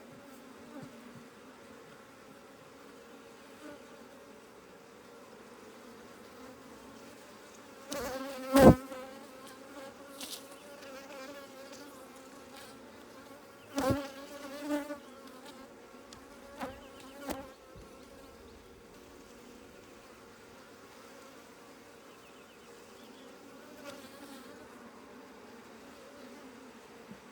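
Africanized hybrid honeybees buzzing around an open hive in a steady, even hum. A few sharp knocks break in, the loudest about eight seconds in and several more a few seconds later.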